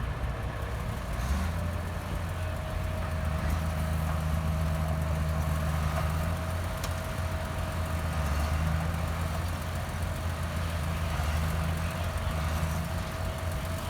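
Heavy diesel engine of earthmoving machinery running steadily: a low drone with a faint, even whine above it that sets in a couple of seconds in.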